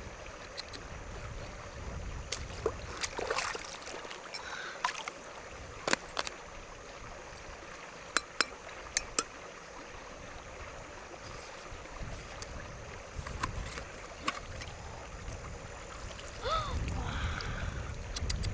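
Scattered sharp clicks and taps over a steady low rushing background, with a cluster of three loud clicks about halfway through and a brief falling pitched sound near the end.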